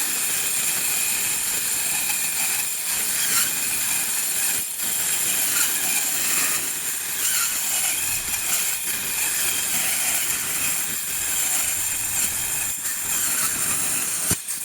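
A power tool cutting metal boat-hull pieces: a steady, loud high-pitched hiss and whine that runs without a break.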